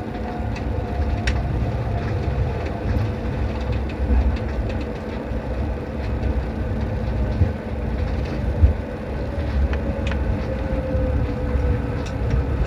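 Airliner cabin noise as the jet rolls on the ground after landing: a heavy low rumble and rattle from the wheels on the pavement, with a few sharp cabin clicks. Over it an engine tone slowly falls in pitch as the engines wind down.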